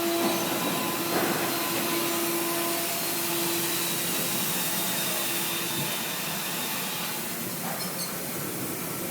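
Steady machinery noise: a constant hiss with a low hum that fades out a few seconds in.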